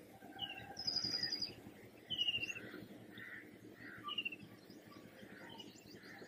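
Small birds chirping: short high chirps about once a second, with a rapid high trill about a second in.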